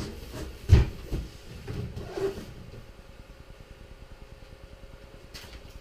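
Handling noise: one loud thump a little under a second in, followed by a few softer knocks and rustles, as things are moved and set down beside the big cardboard box. Then only a faint steady hum with a thin high tone.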